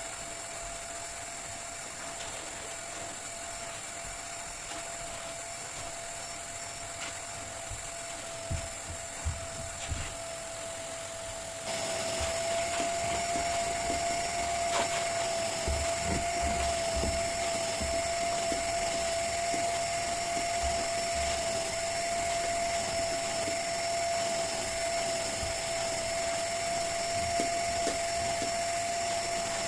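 Vacuum cleaner running steadily, its motor giving a constant whine; it gets louder about twelve seconds in.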